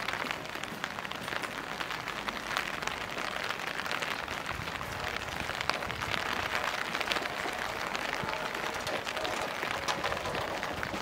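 Steady rain pattering, with many small sharp drop ticks over a continuous hiss.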